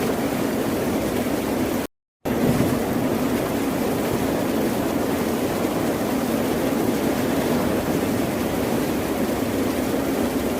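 Steady wash of ocean surf and waves. The sound cuts out to silence for a fraction of a second about two seconds in, then resumes.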